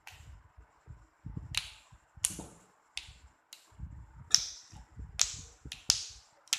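Yard-long beans being worked in a som tam mortar, giving sharp, crisp clicks at an uneven pace of roughly one or two a second, with soft handling noise between them.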